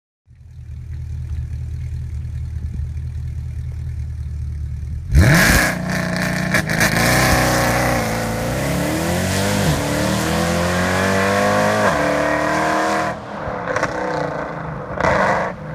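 Mercedes-Benz C63 AMG Black Series 6.2-litre V8 with Agency Power headers and Section 1 mid-pipes, idling, then about five seconds in launching hard and accelerating away. The pitch climbs and drops back at each upshift. Near the end the engine sound falls away, with two short louder bursts.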